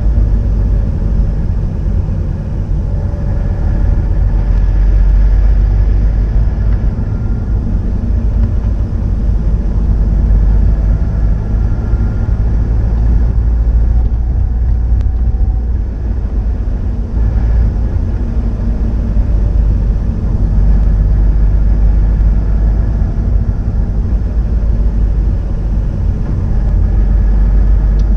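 Subaru Impreza WRX STI (GDB) EJ20 turbocharged flat-four running through its STI Genome muffler: a steady, deep exhaust rumble with no sharp revving.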